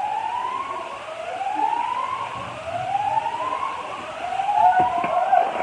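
An emergency vehicle siren with a repeating rising sweep, about one sweep a second, joined by a few short knocks near the end.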